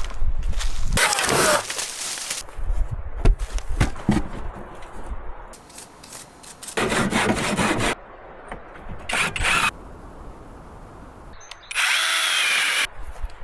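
Short separate bursts of power-tool work on wood, drilling and sawing, each starting and stopping abruptly with quieter gaps between. In the last burst, near the end, a motor's whine wavers in pitch.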